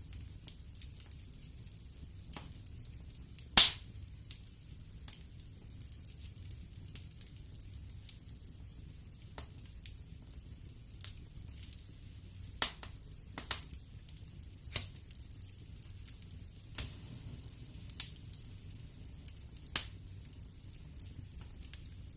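Wood fire crackling in a fireplace: scattered sharp pops and snaps, the loudest a few seconds in and several more in the second half, over a steady low rumble.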